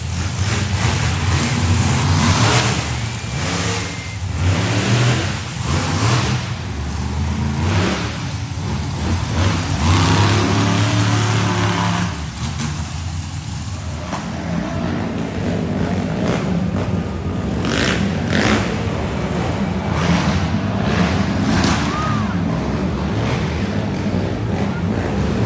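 Monster truck engines running loud and revving repeatedly, the pitch climbing and dropping with each burst of throttle.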